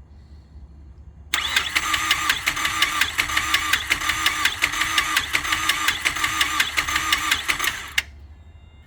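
Starter motor cranking the Mazdaspeed 3's turbocharged 2.3-litre four-cylinder for about six and a half seconds with an even pulsing rhythm, the engine never catching, then cutting off suddenly. It fails to fire because the ignition ground is not connected.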